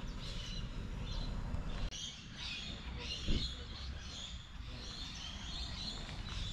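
Many small birds chirping and twittering over a steady low rumble of outdoor background noise, with a brief low thump about three seconds in.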